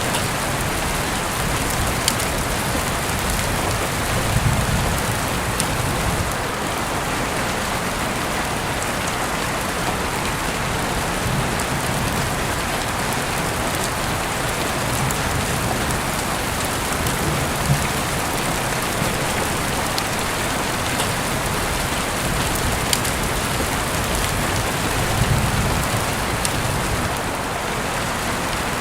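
Steady rain falling in an even hiss, with scattered light ticks of drops and a couple of brief low rumbles, about four seconds in and near the end.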